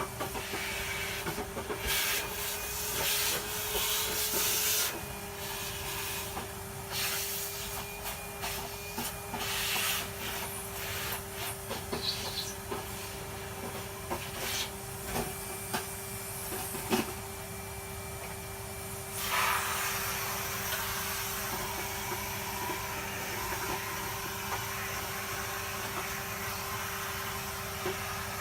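Vacuum cleaner running steadily with a constant motor whine, sucking grit and dust out of a dirty vacuum part, with irregular louder bursts as debris is drawn in.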